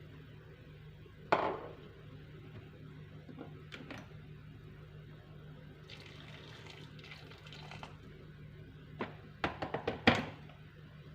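Kitchen handling sounds over a low steady hum: a sharp knock that rings about a second in, a short run of water midway, and a quick clatter of several knocks near the end, the last one the loudest.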